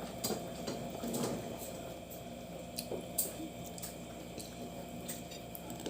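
Quiet eating sounds: scattered wet clicks and squishes of crab and rice being picked at with the fingers and chewed.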